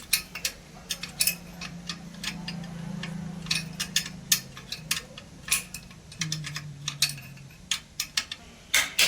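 Metal hand tools and steel parts clinking and ticking in irregular sharp strikes during tractor clutch assembly, over a low steady hum.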